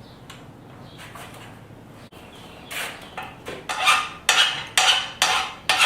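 A steel file scraped in quick strokes across a freshly quenched steel hammerhead, a hardness test. The strokes start a little under three seconds in and come about two a second, each with a bright metallic ring. The file skating on the steel shows that the head has hardened well.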